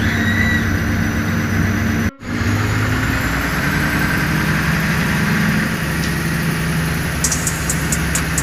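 Steady low rumble and hum of a diesel multiple-unit commuter train, heard from inside the passenger carriage while it runs. The sound cuts out for a moment about two seconds in. Near the end a fast high ticking begins, about five a second.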